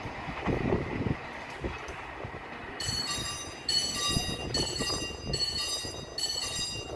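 Train running past on the rails, a rough rumble with the knocks of wheels over rail joints. About three seconds in, a bright ringing tone starts repeating about once a second.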